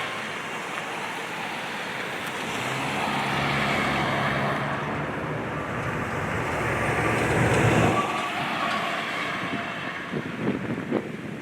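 Wind rushing over the microphone while a motor vehicle's engine hum rises to a peak about eight seconds in and then falls away, like a vehicle driving past, followed by a few rough wind bumps near the end.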